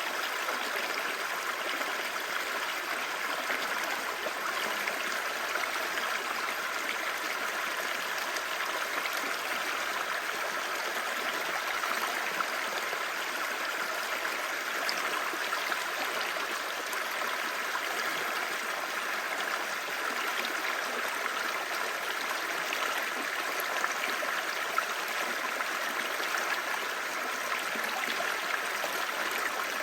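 Clear stream babbling: a steady, even rush of flowing water with small splashes scattered through it.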